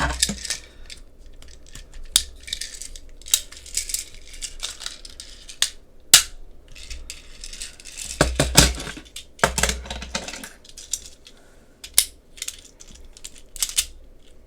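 Hard plastic toy parts of a DX BoonBoom Robo and its BoonBoom Cars being slid and snapped into place: a run of irregular sharp clicks, with a few short scraping slides partway through.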